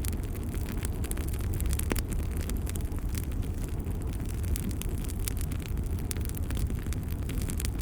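Wood fire crackling in a fireplace: a steady low rumble of flames with frequent sharp pops and snaps.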